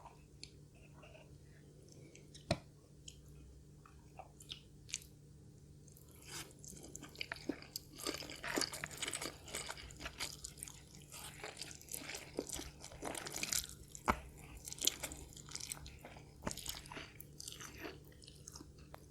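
A person eating close to the microphone: a few isolated mouth clicks and one sharp snap about two and a half seconds in, then from about six seconds on continuous crunching and chewing of crisp food.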